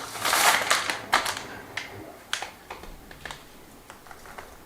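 Capers and salt rattling and crunching in a jar as they are salted for preserving. A dense burst of clicks in the first second and a half thins to scattered ticks.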